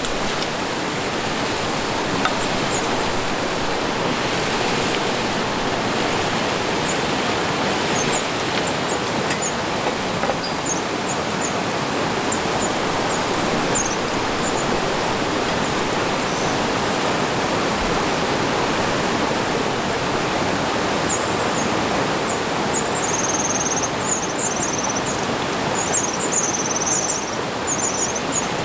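River water rushing steadily, with a run of short high chirps over it in the last several seconds.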